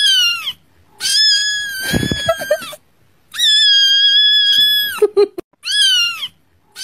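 A kitten crying out in high-pitched cries: a short falling cry, two long held cries, then short falling cries again. A brief low thump comes about two seconds in.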